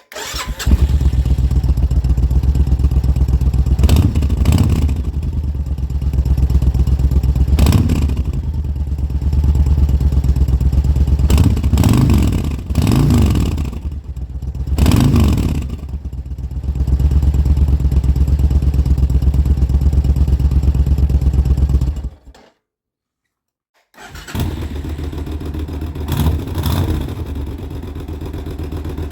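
Suzuki Intruder VS1400's V-twin engine running through an adjustable aftermarket rear muffler, idling with several blips of the throttle that rev it up and let it fall back. About 22 seconds in the sound cuts out completely for a moment, then the engine is heard idling again, quieter.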